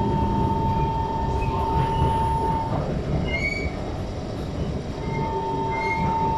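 Inside the cabin of a moving SMRT metro train: a steady running rumble with the wheels squealing on the rails. There are two long, steady squeal tones, one lasting the first two and a half seconds and one starting near the end, with short higher squeaks between them.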